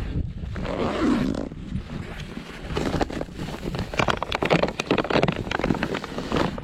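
Hikers' footsteps and scrambling on a rocky mountain path: irregular scrapes and knocks of boots on stone, busiest in the second half, over a steady low rumble of wind on the microphone.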